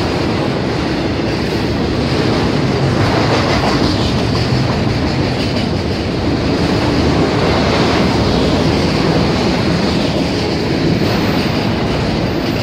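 Freight train's cars (autoracks and boxcars) rolling past close at hand: a loud, steady noise of steel wheels running on the rails.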